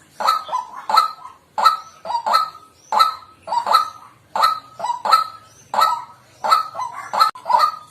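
White-breasted waterhen calling: a loud, steady series of harsh 'kwak' notes, roughly one every 0.7 seconds, some given as quick doubles.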